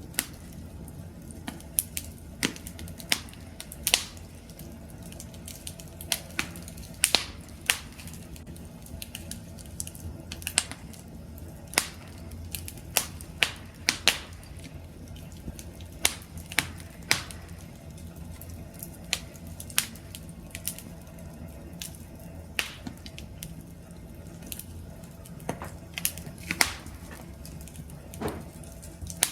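Wood campfire crackling: irregular sharp pops and snaps, sometimes in quick clusters, over a low steady rumble of the burning fire.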